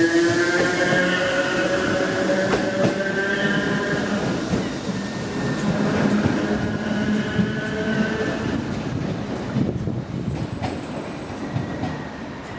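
Passenger train moving along the platform: a whine of several pitched motor tones with wheel clicks over the rail joints, fading away towards the end.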